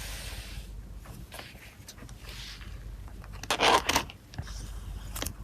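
Photocard packing sounds: plastic sleeves and wrapping being handled, rustling and crinkling with light clicks and taps, loudest in a short burst of crinkling or tearing about three and a half seconds in.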